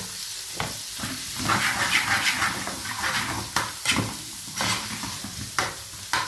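Chopped onions sizzling as they fry in hot oil, with a spatula scraping and knocking against the pan as they are stirred; the sizzle swells about a second and a half in.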